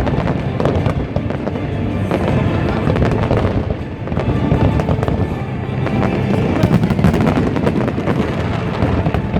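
Fireworks display going off in a dense, continuous run of bangs and crackles, with music playing along underneath.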